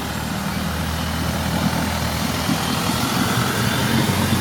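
Longtail boat engine running, with a low, steady pitch, growing steadily louder as the boat draws near.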